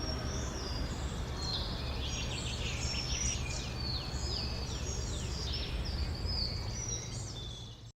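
Birds chirping, with many short high notes and quick falling whistles, over a steady low background rumble; the sound fades out at the very end.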